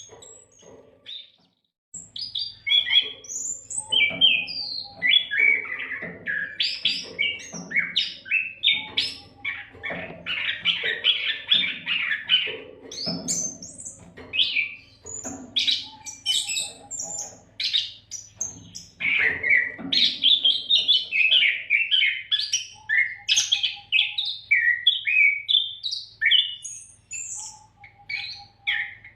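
Oriental magpie-robin (kacer) singing a continuous, varied song of rapid whistles and chattering phrases, with a brief pause near the start. A faint low hum sits under the song after that pause.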